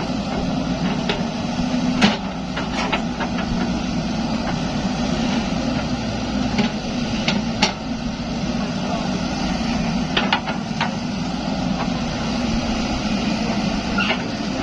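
Zoomlion excavator's diesel engine running steadily, with scattered sharp knocks and clanks from the machine at work; the loudest knock comes about two seconds in.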